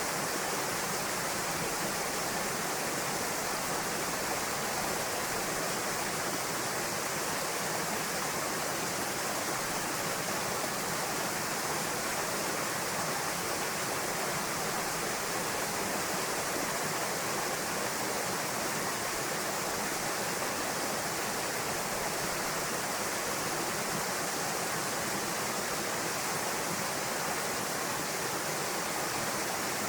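Waterfall pouring into a pool: a steady, even rush of falling water with no change throughout.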